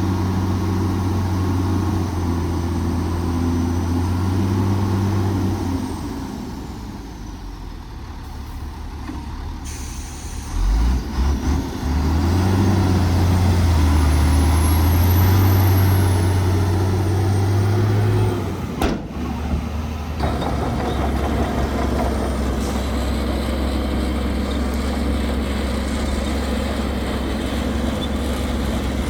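Heavy diesel engines of earthmoving machinery running: a steady low hum that eases off for a few seconds, then works harder and louder for several seconds before settling back. A single brief sharp noise comes about two-thirds of the way in.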